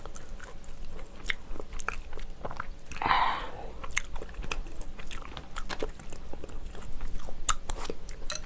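Close-miked eating sounds: a person biting and chewing kimchi from a kimchi stew, with wet clicks and crunches at an irregular pace. There is a louder rush of noise about three seconds in.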